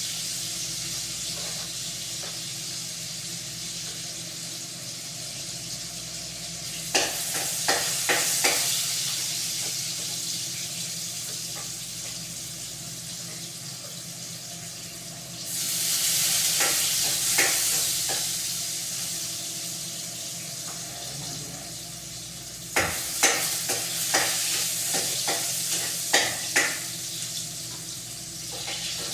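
Food sizzling as it fries in a pan: a steady hiss that swells about halfway through. Clusters of sharp clinks and scrapes from a utensil stirring it come about a quarter of the way in and again near the end.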